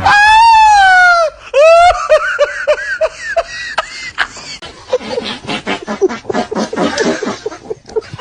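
A loud, high-pitched squealing cry lasting just over a second, a shorter second cry, then human laughter in quick rapid pulses that grows denser and runs on.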